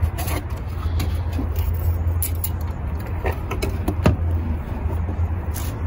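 Car air intake being worked loose and pulled out by hand: several sharp knocks and scrapes of the intake against the engine bay, over a steady low hum.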